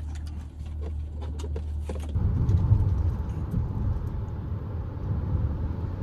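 Low vehicle rumble: a steady low hum with light clicks for the first two seconds, then a louder, rougher rumble.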